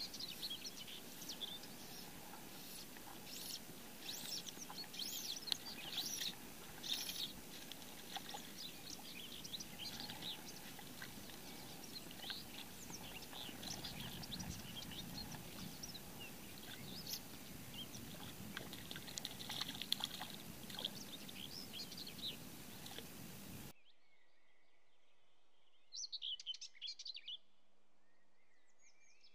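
Small birds chirping and calling repeatedly over a steady background hiss. Near the end the hiss cuts off abruptly and a few more bird calls are heard against near silence.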